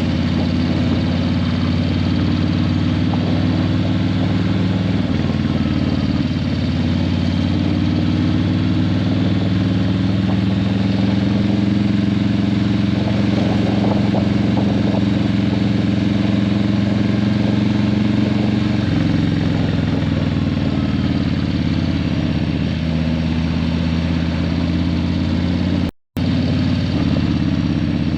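Harley-Davidson Breakout 117's Milwaukee-Eight 117 V-twin running through Vance & Hines Eliminator 300 slip-on mufflers, a loud, steady low exhaust note whose pitch shifts a few times. The sound cuts out for a moment near the end.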